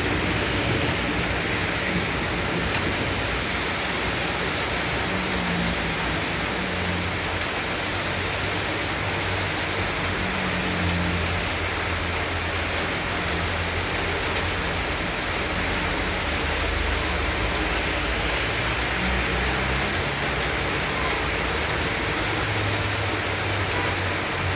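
Heavy tropical downpour: a steady, loud hiss of rain pouring down, with a low rumble that comes and goes underneath.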